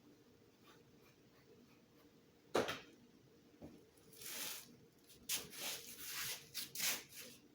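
Small objects being handled at a table: one sharp knock about two and a half seconds in, then a run of short rustling and scraping noises from about four seconds in.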